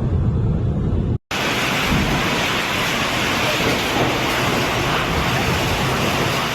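Low wind rumble on the microphone for about a second, then, after an abrupt cut, a dense, steady hiss of heavy rain pouring down in a storm.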